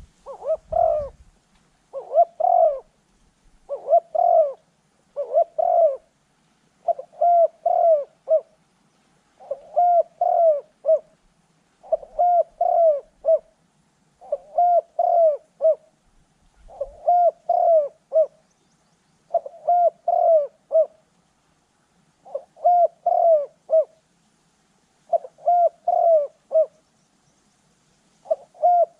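Spotted dove cooing: a short phrase of a few low coos repeated over and over, about every two and a half seconds.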